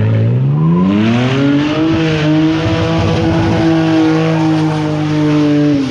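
A car engine revving up over about two seconds and held at high revs in a burnout, with a hiss of spinning tyres over it, then the revs drop away at the end.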